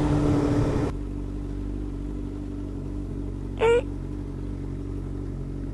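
Motorcycle engine running at a steady idle. A loud hiss cuts off about a second in, leaving the engine's low hum. A short rising chirp sounds a little past halfway.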